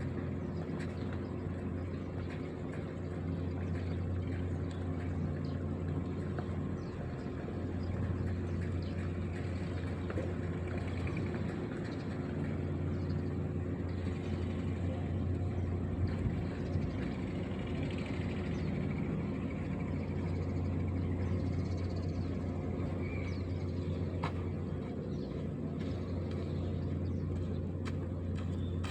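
Heavy machine's diesel engine running steadily at a constant speed, a low, even hum with a few faint clicks and knocks over it.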